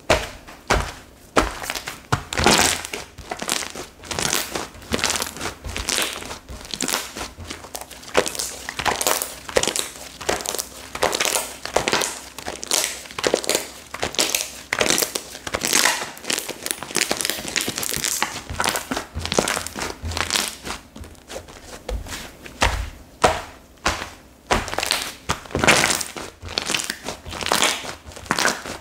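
Slime being squeezed and kneaded by hand, making a steady stream of irregular crackles, pops and squishes.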